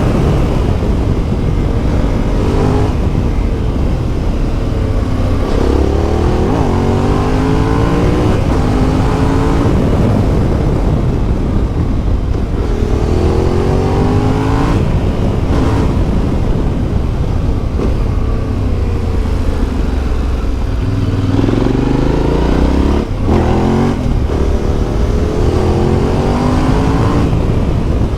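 Yamaha Ténéré 700's CP2 parallel-twin engine through an Akrapovič exhaust, pulling hard and rising in pitch through the gears several times, each rise followed by a drop as it shifts up. Steady wind rush runs underneath.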